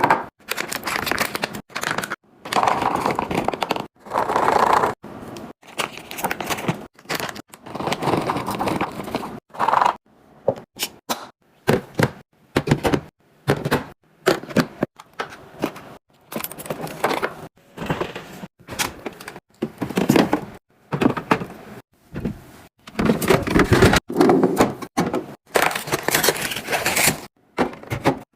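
Fridge being restocked: containers, bottles and packets handled and set down, a run of knocks, clatter and rustling broken by abrupt cuts between short clips.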